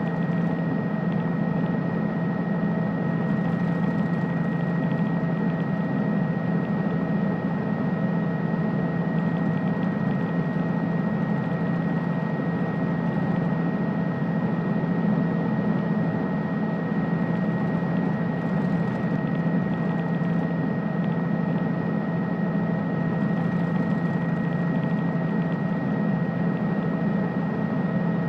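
Helicopter engine and rotor noise heard from aboard the aircraft: a steady, unchanging drone with a low hum and a thin high whine over it.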